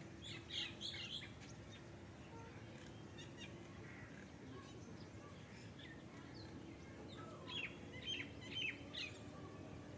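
Small birds chirping: two quick clusters of short high chirps, one just after the start and one near the end, over a faint steady hum.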